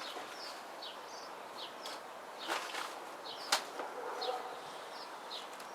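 Small birds chirping, with short high notes that sweep down and repeat every half second or so. A rustle about two and a half seconds in and a sharp click about a second later come from parts being handled and searched through.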